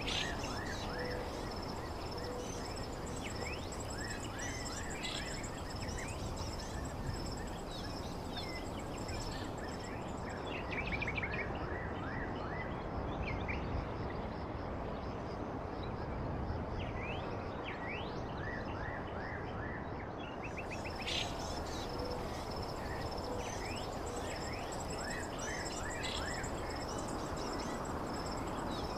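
Outdoor ambience: birds chirping in short calls over a steady background hiss, with a thin, steady high insect-like trill that drops out for a while in the middle.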